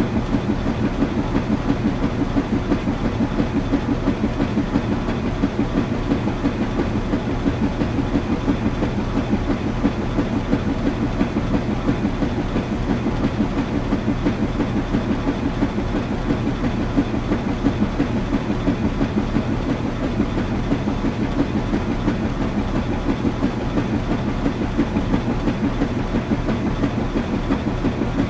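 Washing machine running: a steady low rumble with a fast, even flutter and a constant hum underneath, unchanging throughout.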